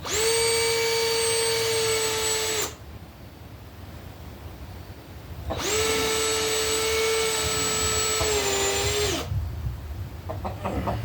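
Handheld electric drill run in two bursts, the first about two and a half seconds and the second about three and a half. Each time the motor whine spins up quickly, holds a steady pitch, then winds down as the trigger is released.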